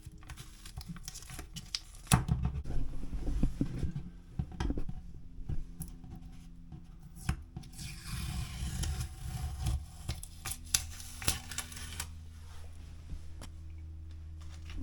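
Masking tape being peeled off a wall, in irregular pulls with rustling and scratching in between.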